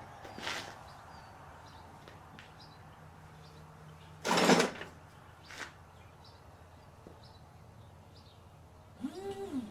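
Short handling noises: a brief scrape lasting about half a second just before the middle, with a couple of lighter knocks around it, over faint background chirps.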